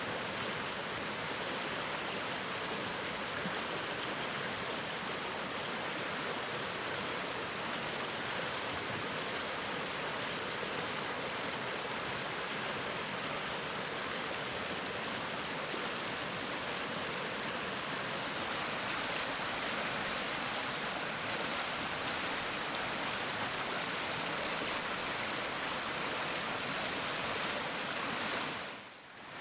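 Stream water flowing steadily over stones, an even rushing and babbling. It dips briefly in level just before the end.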